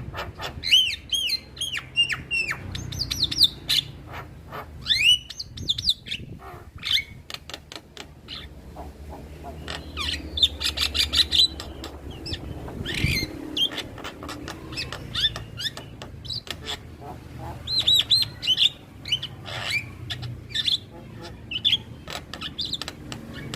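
Male Javan myna singing: a varied run of whistled, gliding notes and chattering calls mixed with sharp clicks, over a low steady hum.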